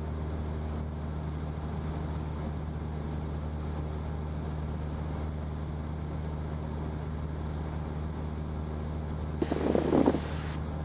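Single-engine Cessna's piston engine and propeller droning steadily in level flight at cruise power, heard from the cockpit. A short, louder noisy burst comes near the end.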